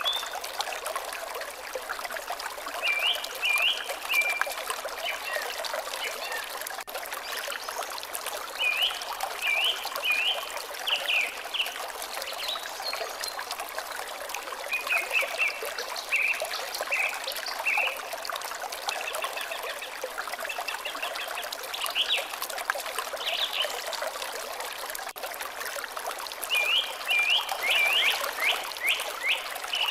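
Water trickling steadily in a small stream, with a bird singing short runs of quick repeated notes every few seconds.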